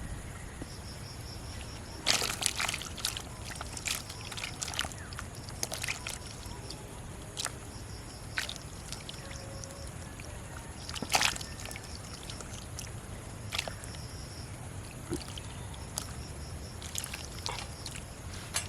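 Pond water splashing and sloshing in irregular bursts, with the loudest splashes about two seconds in and again about eleven seconds in.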